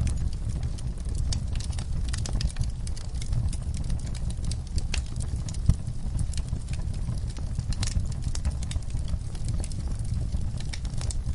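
Wood fire crackling in a fireplace: irregular sharp pops and snaps over a steady low rumble, with one louder pop a little past the halfway mark.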